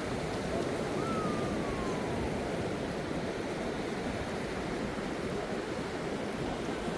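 Ocean surf washing onto a sandy beach in a steady roar of noise. A short, thin falling whistle sounds about a second in.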